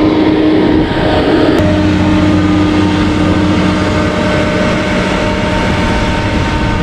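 Passenger train running at speed, heard from an open door with wind rushing over the microphone and a steady hum underneath.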